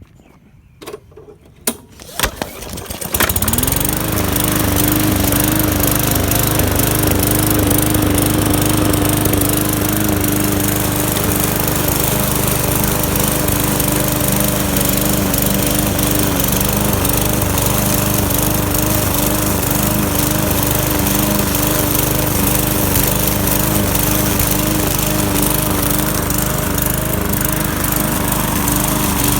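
Walk-behind lawn mower with a Briggs & Stratton 450-series engine being started: a few short knocks, then the engine catches about three seconds in, rises quickly to speed and runs steadily at full throttle.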